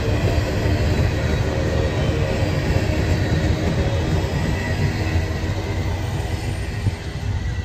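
Railcars of a freight work train rolling past on the rails, a steady rumble with a thin wheel squeal above it, getting quieter near the end.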